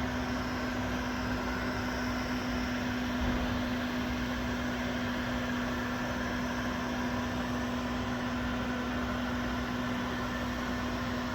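Electric heat gun running steadily as it heats up: a constant blowing rush from its fan with a steady hum.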